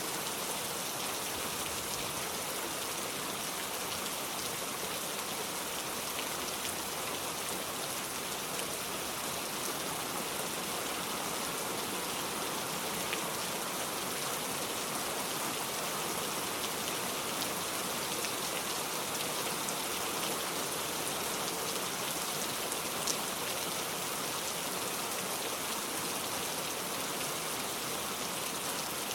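Steady rain falling on a surface, an even hiss of many drops with the odd louder drop click.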